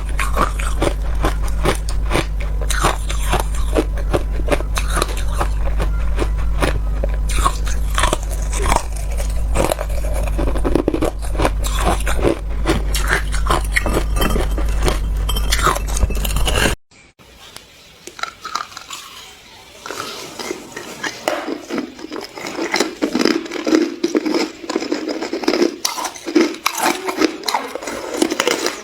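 Ice being bitten and chewed close to the microphone: dense, crisp crunching. It breaks off abruptly about 17 seconds in and resumes a few seconds later, lower-pitched.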